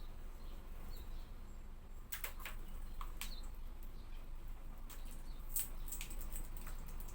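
Hawfinches making short, sharp clicking ticks in irregular bunches from about two seconds in, with a few faint high chirps before them, over a steady low hum.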